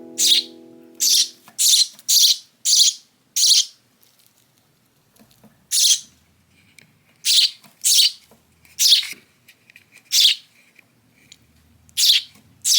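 Young hand-reared sparrow giving loud, harsh chirps, a dozen or so short calls: a quick run of six in the first few seconds, then single calls a second or two apart. These are a fledgling's begging calls for food.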